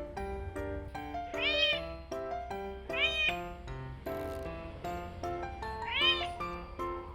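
A house cat meowing three times, each meow rising and then falling in pitch, over background music.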